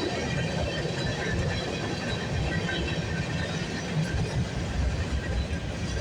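Freight cars of a CN freight train rolling steadily past, a continuous rumble of steel wheels on the rails.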